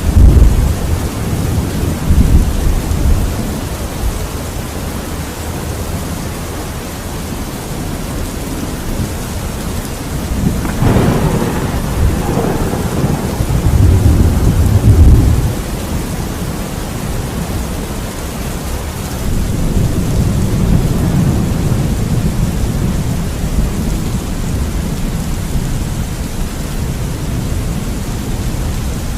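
Steady heavy rain with rolling thunder: a crackling thunderclap about eleven seconds in, a loud rumble a few seconds later, and another long low rumble past the middle.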